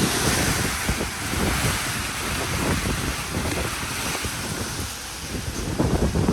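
Typhoon wind gusting hard and buffeting the microphone: a steady heavy rush with low rumbling thumps, gustier near the end.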